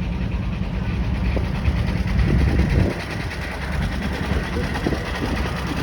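An engine idling steadily with a fast, even pulse low in pitch, with faint voices in the background.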